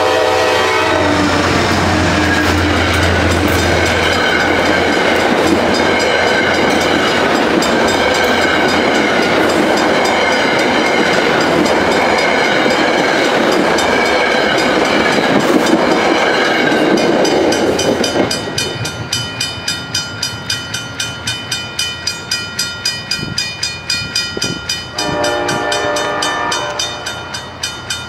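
Metro-North Danbury branch diesel push-pull train passing close by: a horn blast ends in the first half second, the locomotive's engine drones by, then the Shoreliner coaches clatter past for about 18 seconds. Once the train has gone, the grade-crossing bell rings about twice a second, and a fainter horn blast sounds from the departing train near the end.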